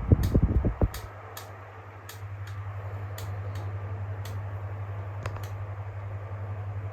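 Electric fan running with a steady low motor hum, while its oscillation (swivel) mechanism gives sharp irregular clicks about every half second: the clicking fault that a silicone-spray lubrication is meant to cure. Loud low music cuts off about a second in.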